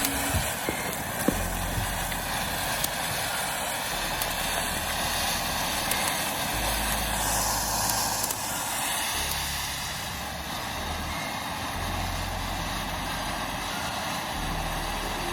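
Ground fountain firework burning with a steady hiss, with a few sharp crackles in the first second or so.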